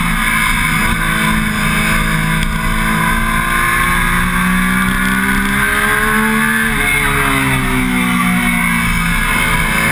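Triumph Daytona 675's three-cylinder engine pulling at track speed, its note climbing slowly, then dropping about seven seconds in and easing down. Wind rushes over the microphone throughout.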